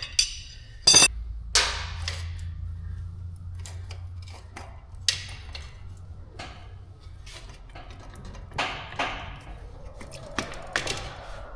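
Metal tire spoons and tools knocking and clinking against a dirt bike wheel during a tire change: a string of sharp knocks and clinks, the loudest about a second in, over a low steady hum.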